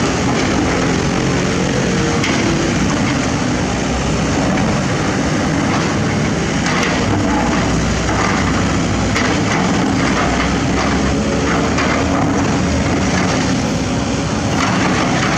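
Excavator diesel engine running steadily, with a few sharp knocks of metal on metal now and then.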